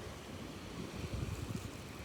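Faint, low, uneven rumble with a light hiss above it: background noise with no distinct event.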